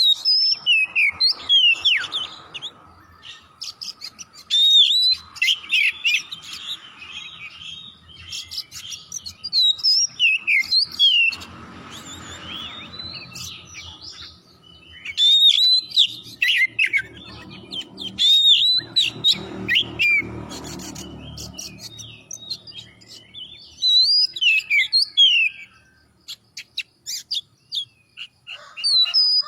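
Oriental magpie-robin singing in bouts of loud whistled phrases made of quick rising and falling notes, with short pauses between the bouts.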